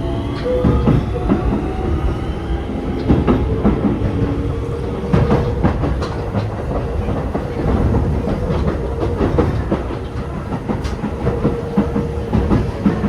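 Keio 7000 series electric train with Hitachi IGBT-VVVF inverter running under way: the inverter's rising whine of acceleration fades out about two seconds in, then the wheels rumble and click over rail joints with a steady hum.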